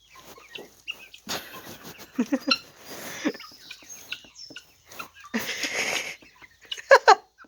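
Barred Rock chicken giving short clucks and squawks, with a sharp call near the end, mixed with bursts of scratchy noise.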